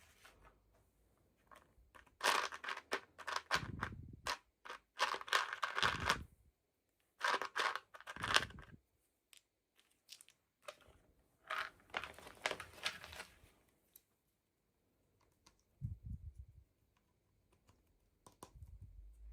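Doll packaging being unwrapped by hand: plastic and paper crinkling and tearing in several bursts, with a few dull low thumps as the box is handled.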